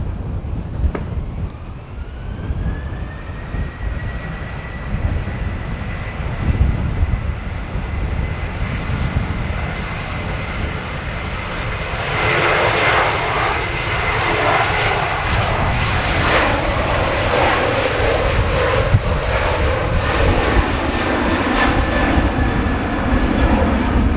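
Airliner engines spooling up with a whine that rises and then holds steady, followed by a louder engine roar from about halfway in. Wind rumbles on the microphone throughout.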